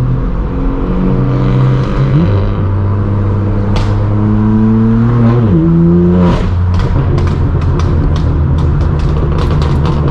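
Straight-piped BMW M4 F82's twin-turbo inline-six, on an AWE Track exhaust without resonators, accelerating hard. It breaks for a shift about two seconds in, then climbs steadily in pitch. Just after five seconds the revs drop sharply and a fast run of exhaust pops and crackles follows.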